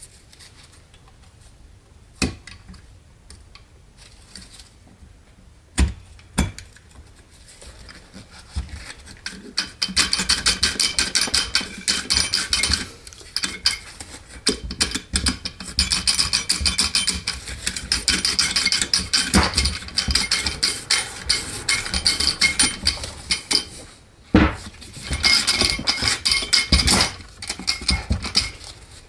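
Metal hand tools and transmission parts clicking and clinking during work on an Aisin AW55-50 automatic transmission. A few single knocks come in the first seven seconds, then long runs of rapid clicking from about ten seconds in, with a short break near the end.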